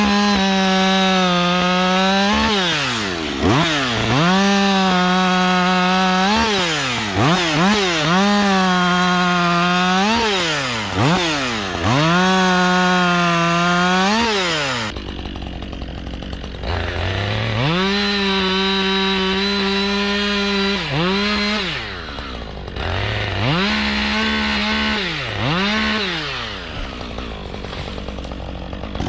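Husqvarna 562 XP two-stroke chainsaw bucking a downed tree. It repeatedly revs up, holds a steady pitch under load through each cut of a few seconds, then drops back. It settles to idle about halfway through before cutting again.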